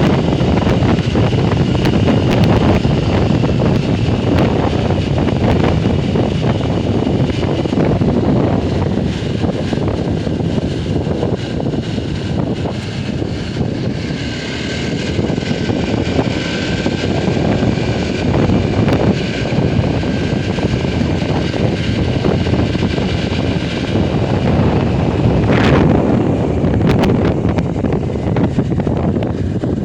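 Motorcycle running steadily while being ridden, with heavy wind noise on the microphone.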